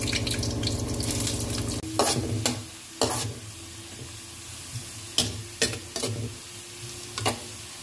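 Sliced onions sizzling in oil in a metal kadai, stirred with a metal spatula that scrapes and clinks against the pan several times. A steady low hum fills the first two seconds and cuts off abruptly.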